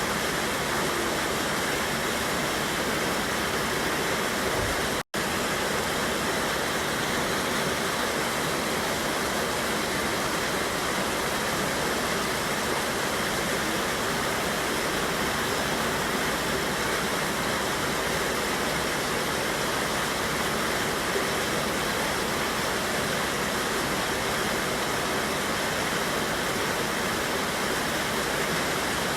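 Steady rushing of a mountain river spilling over a small waterfall, an even wash of water noise that cuts out for an instant about five seconds in.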